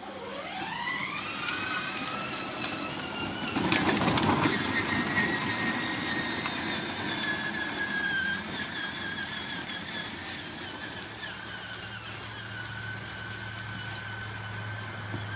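A motor whine that rises quickly in pitch over the first two seconds, then holds steady, with a louder, rougher burst about four seconds in.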